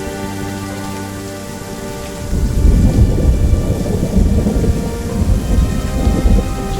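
Steady rain with a long rolling thunder rumble that starts about two seconds in and carries on to the end.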